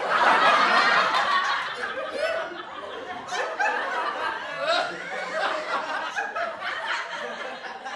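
A group of people laughing together, several voices overlapping, loudest in the first second or two and then carrying on a little softer.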